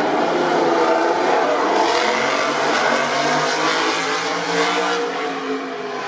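MotoGP racing motorcycle engines running at high revs, several engine notes overlapping and sliding up and down in pitch as the bikes rev and change speed.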